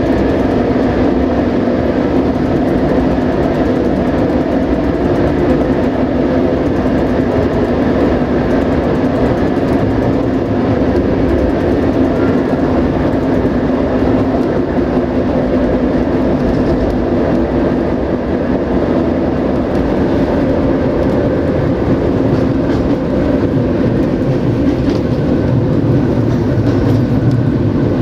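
Passenger railway coach running along the track, heard from inside the carriage: a steady, even rumble of wheels on rails.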